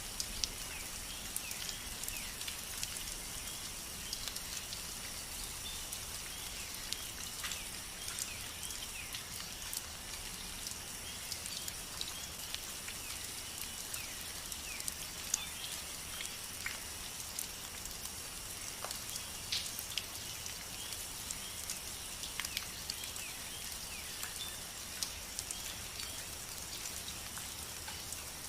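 Steady rain: an even high hiss with many individual drops ticking irregularly close by.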